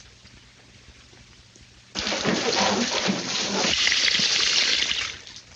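Water gushing out of a pipe in a film soundtrack, starting suddenly about two seconds in and dying away about three seconds later.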